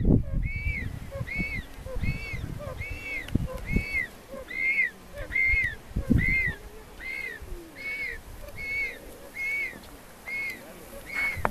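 A bird calling over and over, a short whistled note that rises and falls, about twice a second. Under it are irregular low rumbling thumps, loudest near the start and about halfway through.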